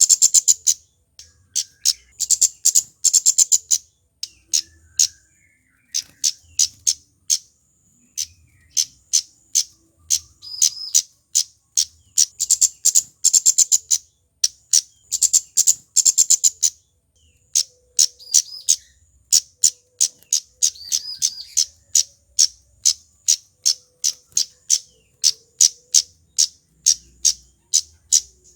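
Male flowerpecker (cabe-cabean) giving sharp, very high ticking calls in rapid runs, each run lasting a second or two, repeated again and again with short pauses.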